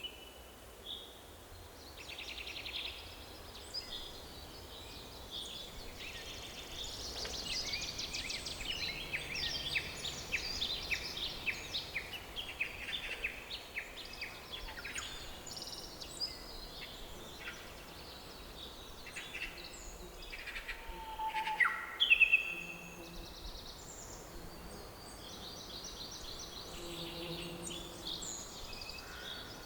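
Several songbirds singing and chirping, with fast trills and short calls, busiest from about a quarter of the way in and again near the end, with a few louder calls just past the middle, over a faint steady forest background.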